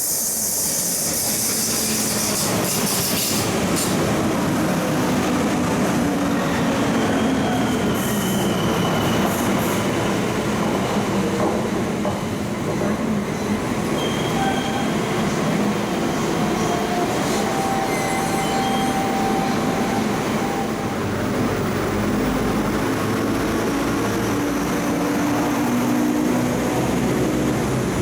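Passenger train running through the station at close range: a loud, steady rumble of wheels on rail, with brief high-pitched wheel squeals now and then.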